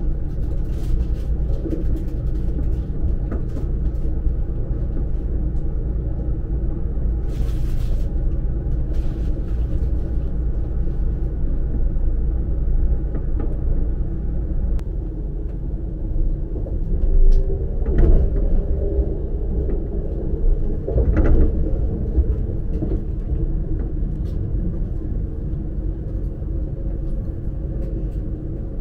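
Cabin noise inside a Siemens ICE 4 high-speed train running at speed: a steady low rumble from the running gear, with a faint hum. Twice past the middle it briefly grows louder.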